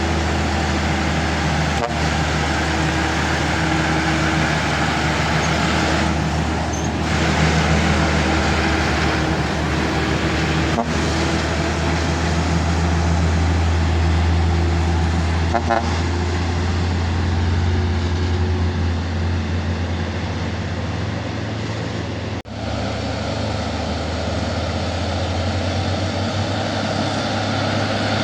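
A truck engine running steadily at low revs, with road traffic noise around it.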